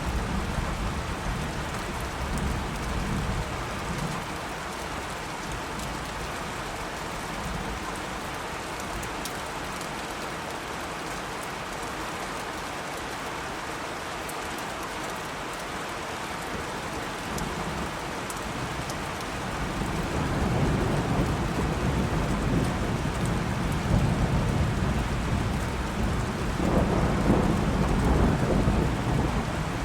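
Steady rain falling, with rolling thunder rumbling low near the start and building again in the second half, loudest near the end.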